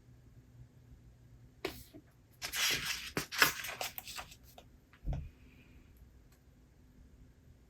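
Paper rustling for about two seconds as a book page is turned, with a few crisp ticks, followed by a soft low thump.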